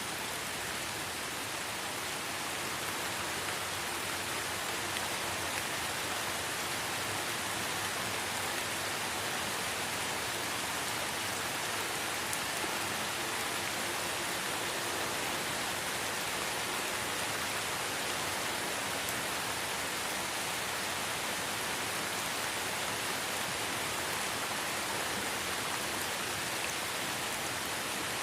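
Steady light rain falling in a forest, an even hiss of drops with no distinct single sounds.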